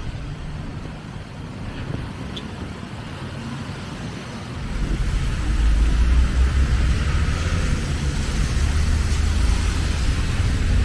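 Road traffic noise, with a heavy low rumble that sets in about halfway through and stays.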